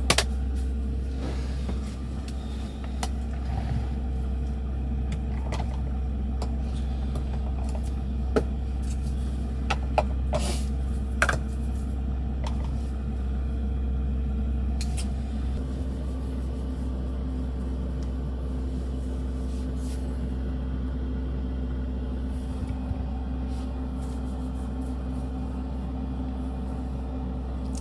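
Diesel air heater running in a truck camper: a steady low rumble and hum, with a few light clicks and knocks about a third of the way in.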